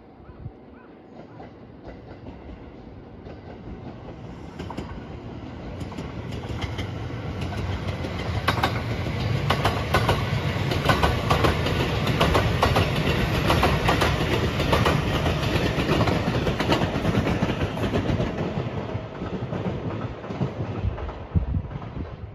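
Rapid Marine Liner electric multiple-unit train approaching and passing close by, its wheels clacking over rail joints in runs of sharp clicks. The sound builds over the first several seconds, is loudest in the middle, and fades near the end.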